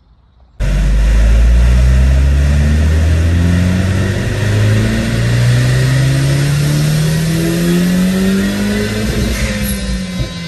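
Mini Cooper S R56's big-turbo 1.6-litre four-cylinder engine pulling at full throttle under load on a dyno, heard from inside the cabin. It cuts in suddenly about half a second in, and the revs climb steadily for about nine seconds before easing off and dropping near the end.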